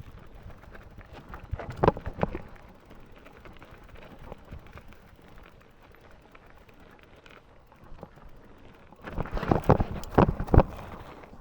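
Mountain bike clattering over rough trail: a low rumbling of tyres on dirt and rock, with two bursts of sharp knocks and rattles from the frame, chain and suspension, one about two seconds in and a louder one near the end.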